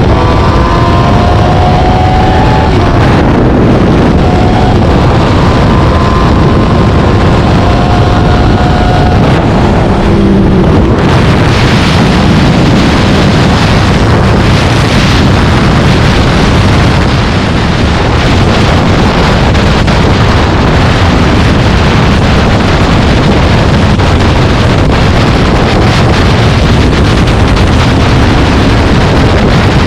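Loud, steady wind rush on the microphone over vehicle and road noise while moving at speed, with a faint sliding engine note in the first ten seconds or so.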